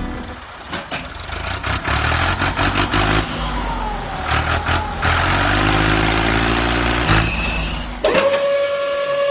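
Truck engine running and revving, its pitch rising about five to seven seconds in. About eight seconds in it gives way to a steady high whistle-like tone.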